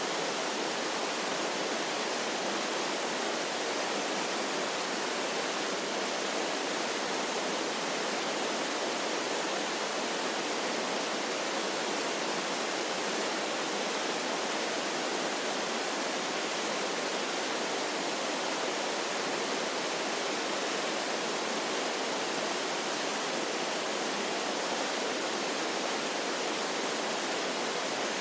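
Waterfall rushing steadily: an even, unbroken hiss of falling water with no deep rumble.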